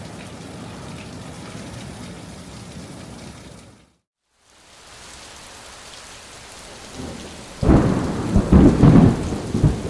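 Steady rain from a hurricane's outer bands, broken off suddenly about four seconds in and then resuming. Near the end a loud low rumble rises over the rain.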